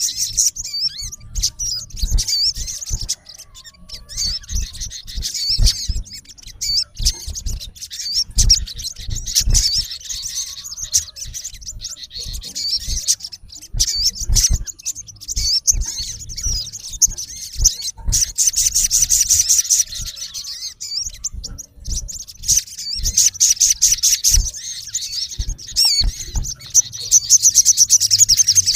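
Male olive-backed sunbird calling: rapid, high, sharp chirps and trills in bouts, running fastest and loudest near the end. Short low thuds sound underneath throughout.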